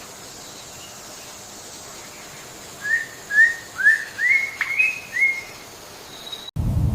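A bird calling: a run of six short whistled notes, each sliding upward, about two a second, over a steady hiss. Just before the end the sound cuts abruptly to a low, wind-like rumble.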